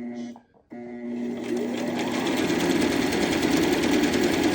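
Electric sewing machine running: after a brief stop it starts again and picks up speed over about a second, its pitch rising, then stitches steadily at a fast, even rhythm.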